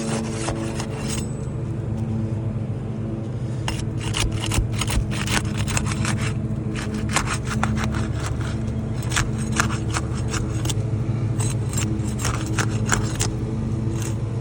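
A wind-damaged asphalt shingle being pried up on a roof: scraping and rubbing, with many sharp clicks from about four seconds in as it tears. A steady engine hum runs underneath.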